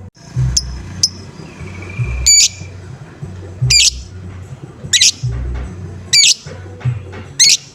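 Lovebird giving its harsh 'ngoek' call: five loud, sharp squawks about a second and a quarter apart, after two quieter chirps and a short held whistle. A low, steady music beat runs underneath.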